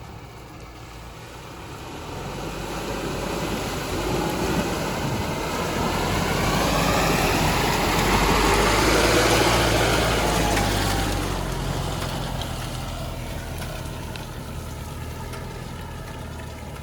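4x4 vehicle engine running as the vehicle drives past, growing louder to a peak about halfway through and then fading away.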